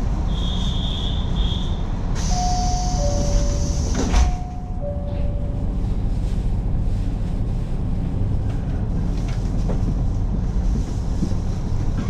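Train doors closing: a high beep, then a two-tone chime over a hiss of air, ending in a sharp thump about four seconds in. Under it all runs the steady low rumble of the train.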